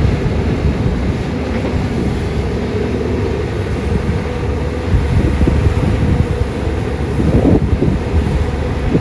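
Caterpillar 320D excavator's diesel engine running under load with a steady low rumble, swelling louder about halfway through and again near the end.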